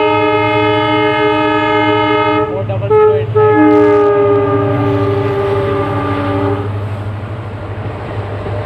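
WDP4B diesel locomotive sounding its multi-tone horn as it arrives: one long blast, a short broken stutter, then a second long blast that stops a little past the middle. A steady low engine hum runs under it, and after the horn the rumble of the arriving train remains.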